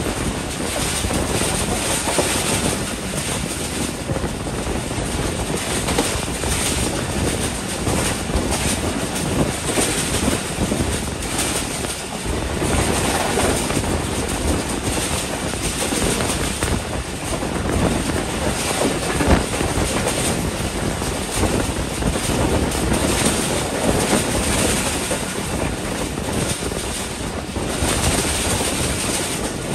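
Passenger train running at speed, heard from an open window at the coach's side: a steady rush of wheel and track noise mixed with wind.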